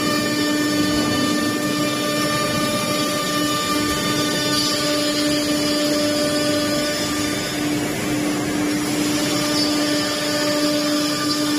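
Woodworking machinery running steadily: a constant motor whine over continuous machining noise, typical of a CNC router or panel-processing machine at work.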